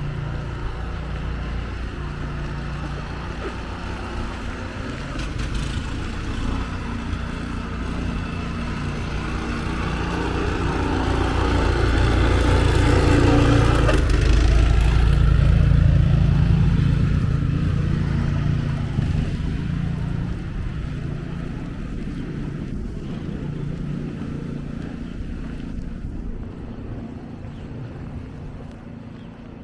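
A vehicle's engine passing close by, with a low running hum that grows louder to a peak about halfway through and fades near the end.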